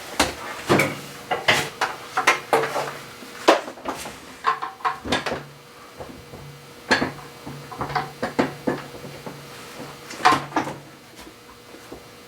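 Irregular clinks and knocks of metal hand tools being handled and worked on an engine's oil filter housing, some sharp and loud, with a faint low hum that comes and goes underneath.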